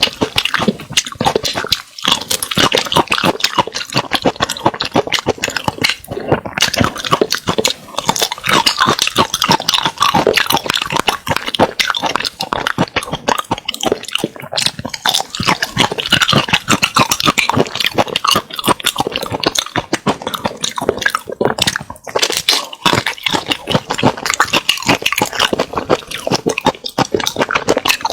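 Close-miked mouth eating sounds: food being chewed, with dense rapid clicks and crackles throughout.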